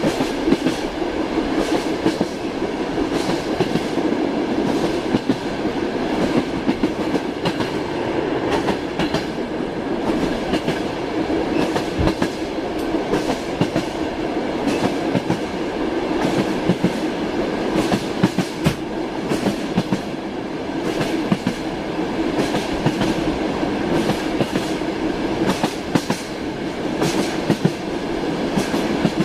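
Passenger train heard from inside a compartment: the steady running rumble of the carriage with frequent sharp knocks of the wheels clacking over rail joints.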